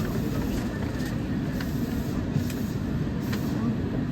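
Kita-Osaka Kyuko 9000-series electric train running, heard from inside the leading car: a steady low rumble of wheels on rail and running gear, with a few faint clicks.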